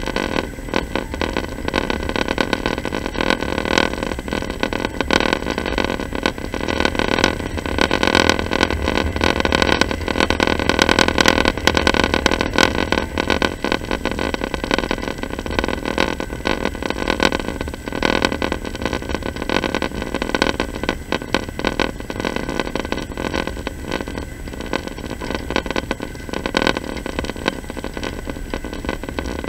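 Passenger train running, heard from inside the carriage: a continuous rumble shot through with many small knocks and rattles.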